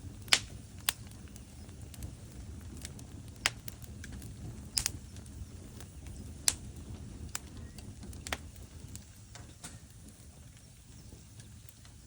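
Logs burning in a fireplace: a steady low rumble of flames with sharp crackles and pops at irregular intervals, the loudest pops shortly after the start and about halfway through.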